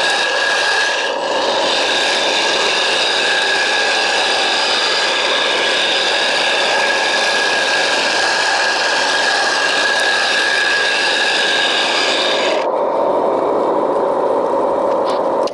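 A 1/14-scale hydraulic RC construction machine working: a steady high motor whine over gritty rasping and scraping. The whine drops away about 13 seconds in.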